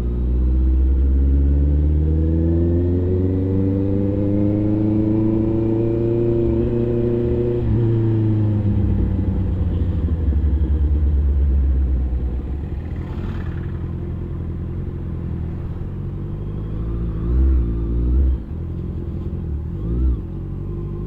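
A superbike engine heard while riding: its pitch climbs steadily under throttle for several seconds, drops about eight seconds in, then runs lower and steadier, with short swells of throttle near the end.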